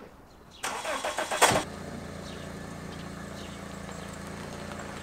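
Car engine cranked by the starter for about a second, catching, then idling steadily.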